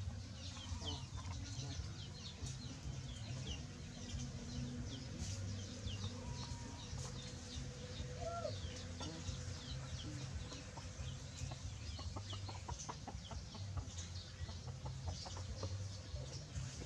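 Outdoor background of birds: many short, high chirps throughout, with a low rumble underneath and a run of quick clicks in the last few seconds.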